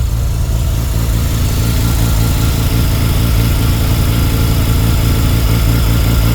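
Turbocharged Mazda RX-7 rotary engine idling steadily on its first startup after a rebuild, through a home-built exhaust. It runs fairly quiet but super rich, as it does before the fuel map is tuned.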